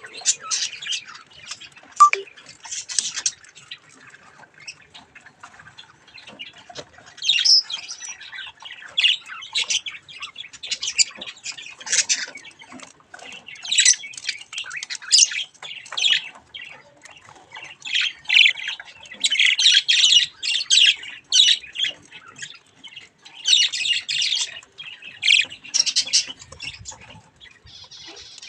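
Budgies chattering and squawking, many short harsh calls in quick succession.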